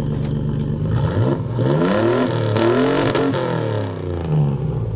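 Truck engine idling, then revved up twice in quick succession, the pitch climbing and falling back each time before it drops to idle again.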